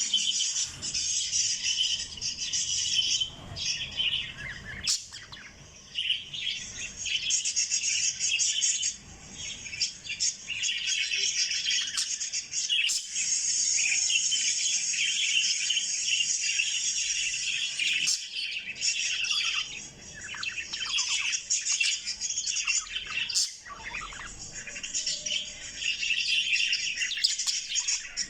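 Small pet parrots kept as love birds, chirping and chattering almost without break in rapid high-pitched calls, with a few short lulls.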